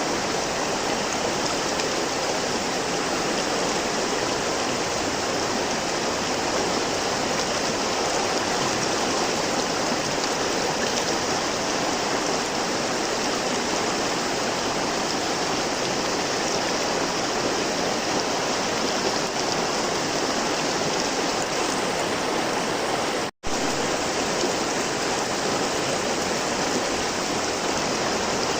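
River water flowing in a steady, continuous rush, broken once by a split-second gap about 23 seconds in.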